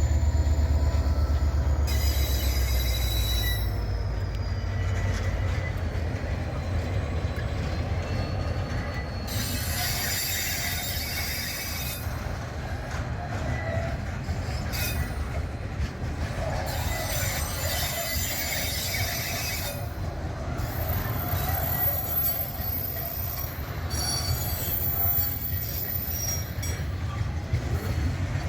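A train rolling past. There is a deep rumble in the first few seconds, then the wagons' steady rolling noise, with wheels squealing now and then.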